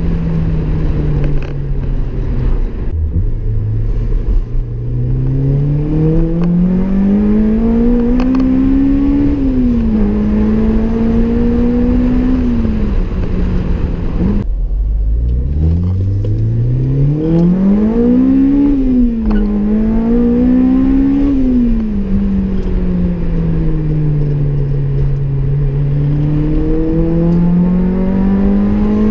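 Honda Civic Type R EP3's 2.0-litre i-VTEC four-cylinder, fitted with a Tegiwa cat-back exhaust and intake, heard from inside the cabin under hard acceleration. It makes two pulls through the gears: the engine note climbs, then drops at each upshift. Between and after the pulls it falls away as the car eases off, and it climbs again near the end.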